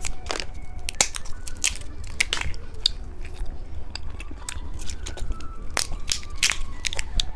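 Close-miked eating of candy: irregular sharp crackles and clicks of biting and chewing.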